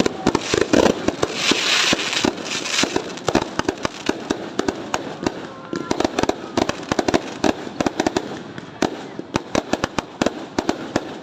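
New Year fireworks going off in a rapid, continuous barrage of bangs and crackling pops, many a second, with a hissing crackle about two seconds in.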